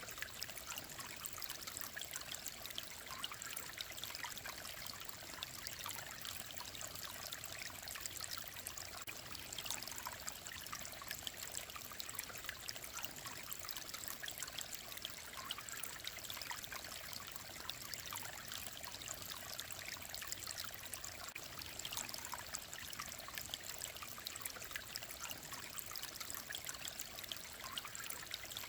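Small mountain stream running over stones: a steady babble of trickling and splashing water.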